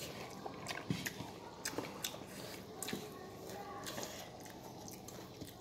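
Faint, irregular chewing and biting sounds of someone eating, with scattered small clicks.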